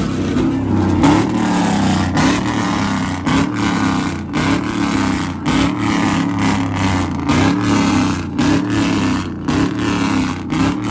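Loud vehicle engine running, its pitch wavering slightly as it is revved.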